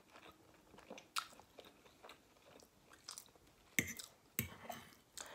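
A person chewing a mouthful of food with faint mouth sounds. Near the end come a few sharp clicks as a metal fork taps and scrapes on the plate.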